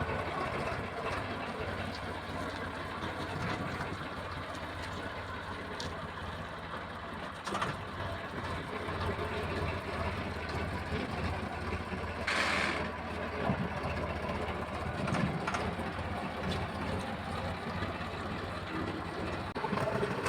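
Tractor's diesel engine running steadily at idle, with a short burst of hiss about twelve seconds in.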